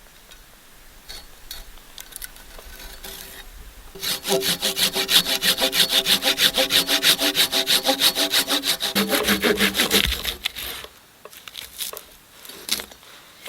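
Hand saw cutting through a piece of wood in rapid, even strokes, several a second, with a slight ringing from the blade. The sawing starts about four seconds in and stops about two-thirds of the way through.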